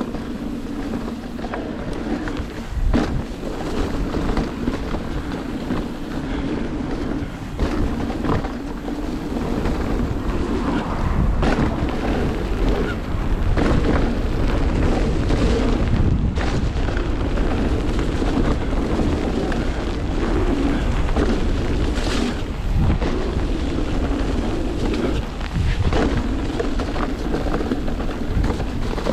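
Mountain bike descending a wet downhill trail: wind rumble on the microphone and tyre noise, broken by frequent sharp rattles and knocks as the bike hits bumps.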